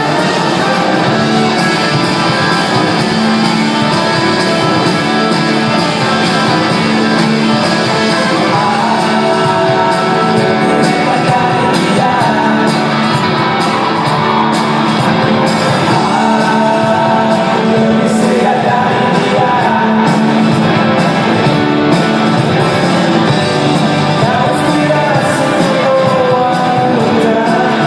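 Rock band playing live at full volume, with singing over the band.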